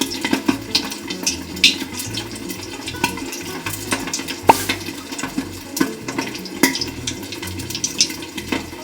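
Whole pork leg deep-frying in hot oil inside a covered pot: a steady sizzle with frequent sharp pops and spatters, one especially loud pop about four and a half seconds in.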